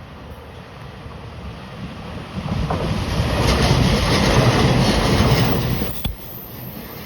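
Taiwan Railway EMU3000 electric train passing at speed: a rushing noise of wheels and air that builds from about two and a half seconds in and drops off sharply about six seconds in.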